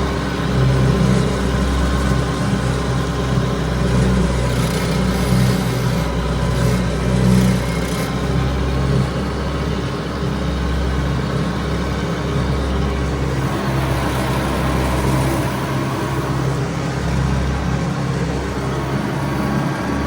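Tractor engine running steadily while driving an 8-foot mower through grass and weeds.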